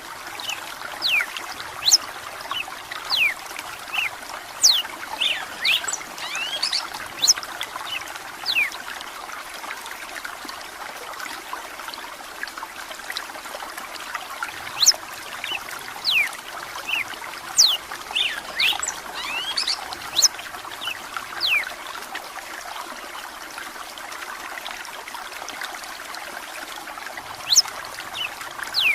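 Steady trickle of running water, with a red-cowled cardinal (galo-de-campina) singing over it in short phrases of quick, sharp whistled notes that come again every second or two.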